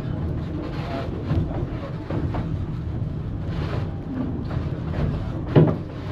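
Narrow-gauge railroad passenger car rolling along: a steady low rumble with scattered knocks and clanks, and one sharper knock about five and a half seconds in.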